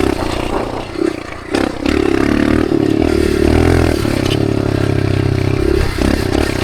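Dirt bike engine running under throttle while riding. It eases off briefly about a second in and again near the end, then pulls steadily.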